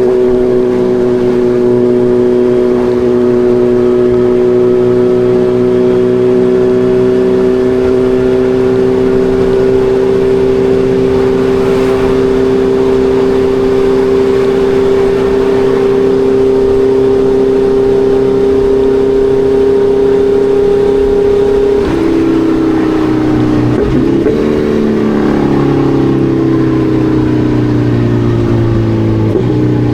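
Kawasaki Ninja 1100SX inline-four engine under way at steady revs for about twenty seconds, then the revs fall in several steps over the last few seconds.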